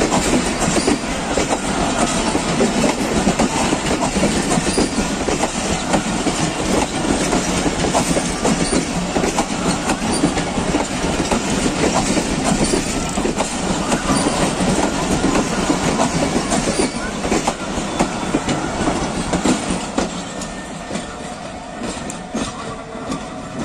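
Passenger coaches of the Millat Express rolling past close by, their wheels clattering over the rail joints in a dense stream of clicks. The sound fades as the last coach draws away near the end.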